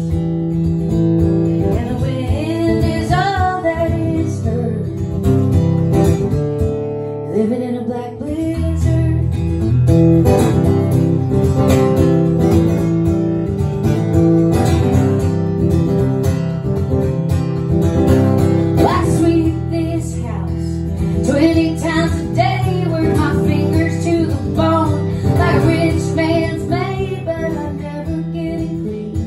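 Strummed acoustic guitar with a woman singing over it in places: a folk song performed live.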